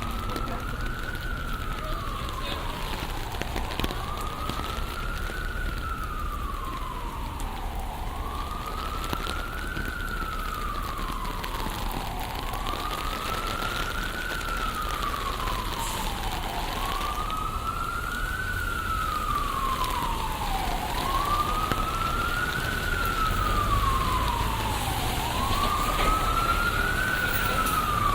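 Emergency vehicle siren wailing, its pitch rising and falling slowly about every four seconds and growing louder toward the end, over the steady hiss of rain on the street.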